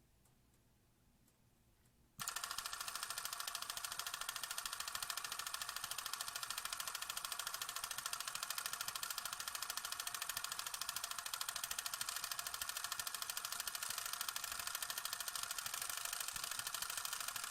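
A rapid, steady mechanical clicking that starts suddenly about two seconds in and keeps an even, fast rhythm.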